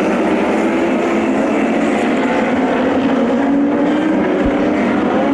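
Several sprint car engines running hard during a race, their pitches overlapping and rising and falling as the cars lap the track.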